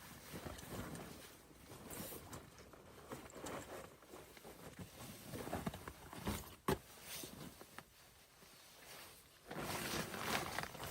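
Irregular rustling and crunching handling sounds, with a single sharp click a little past the middle and denser rustling near the end.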